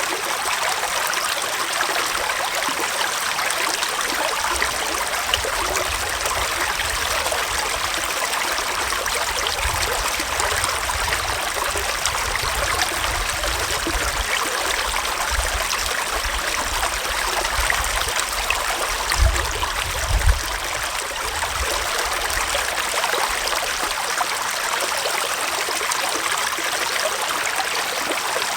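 Gentle forest stream flowing, a steady rush and trickle of water. Brief low rumbles come and go beneath it, strongest twice about two-thirds of the way through.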